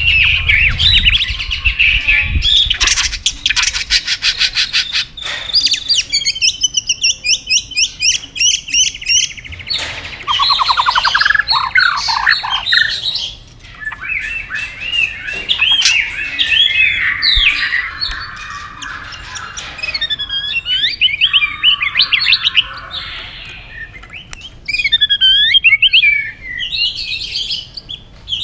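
White-rumped shama singing a long, varied song of slurred whistles, fast rattling trills and chattering phrases, broken by brief pauses.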